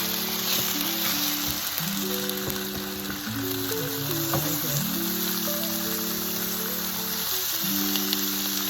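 Chicken pieces frying in butter and olive oil in an electric skillet, a steady sizzle, under background music of slow held notes.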